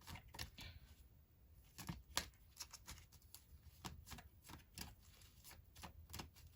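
Tarot cards being shuffled and handled: faint, irregular flicks and taps of card stock, a little louder about two seconds in.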